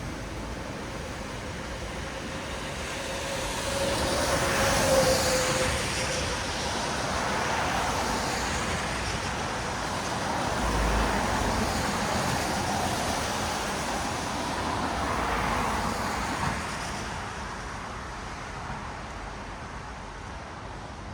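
Traffic on a wet city road: tyres hissing on wet asphalt as vehicles pass, the sound swelling and fading about three times. The first and loudest pass carries a brief engine tone.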